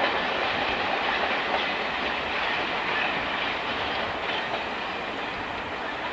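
A train running past on the tracks: a steady rolling noise that slowly fades.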